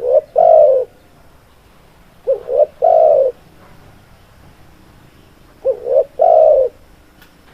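Spotted dove (tekukur) cooing: three repeated calls about three seconds apart, each two short coos and then a longer one.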